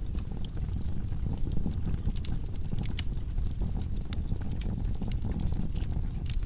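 Logs burning in a fireplace: a steady low rush of the fire with frequent small sharp crackles and pops.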